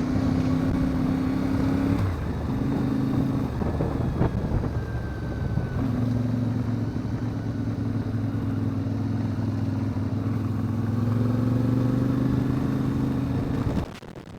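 CFMoto 450MT (Ibex 450) parallel-twin motorcycle engine running at steady speed, with wind and road rush. The engine note drops away briefly about two seconds in and again for a couple of seconds soon after, then holds steady and cuts off suddenly near the end.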